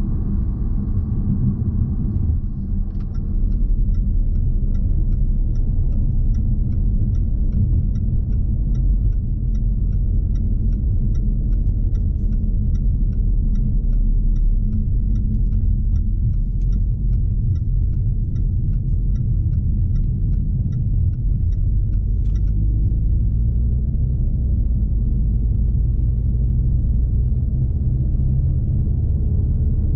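Steady road and engine rumble inside the cabin of a 2020 Jaguar XE P300, powered by a 2.0-litre turbocharged four-cylinder, while driving. From about three seconds in until about three-quarters of the way through, a regular ticking about twice a second, the turn-signal indicator.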